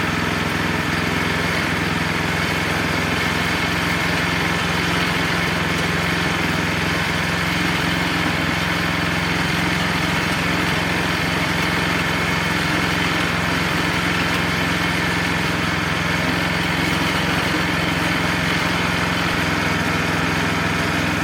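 Wood-Mizer LX25 portable sawmill's small engine running steadily at a constant speed.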